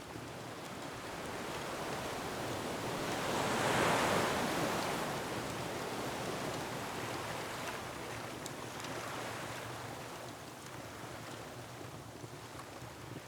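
Ocean waves surging against a rocky shore: one wave builds to a peak about four seconds in and slowly recedes in a long wash, with faint scattered crackles of a wood fire over it.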